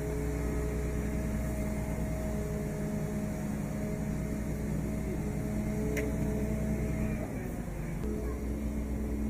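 Heavy truck engine running steadily with a low hum, its note breaking off about seven seconds in and settling again at a slightly different pitch.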